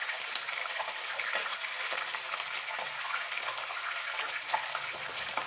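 Raw chicken pieces and sliced onions sizzling in hot oil in a karahi: a steady hiss with scattered small crackles.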